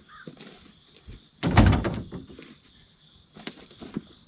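Crickets trilling steadily, with one loud knock and rattle about a second and a half in, lasting about half a second.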